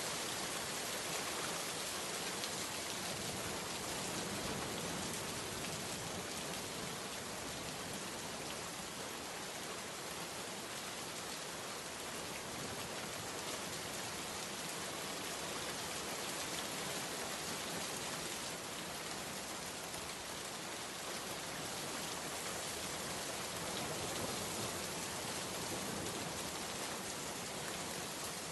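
Steady rainstorm: a dense, even hiss of rain falling, unbroken throughout.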